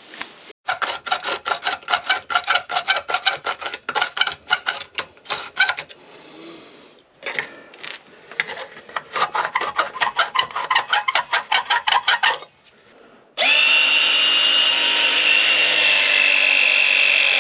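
Rapid rubbing strokes, about five a second, in two runs of several seconds each. About thirteen seconds in, a power tool's motor starts and runs with a steady whine, the loudest sound here.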